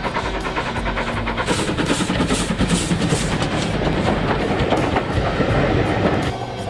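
Steam locomotive running, its exhaust chuffing in an even beat of about two to three chuffs a second, over background music. The sound drops away near the end.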